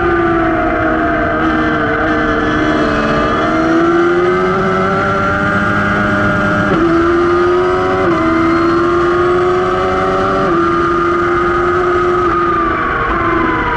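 Motorcycle engine running hard at racing speed, heard from a camera mounted at the rear axle; its pitch climbs and falls with the throttle and jumps abruptly a few times, around the middle and later on, as gears change.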